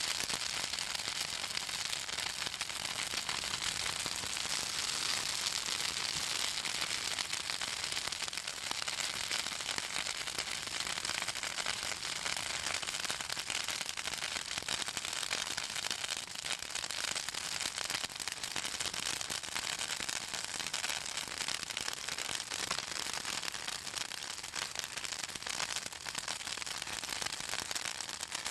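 Southern magnolia branches burning in a bonfire, crackling and popping steadily with dense fine snaps over a hissing background; the oils in the magnolia wood and leaves make it crackle.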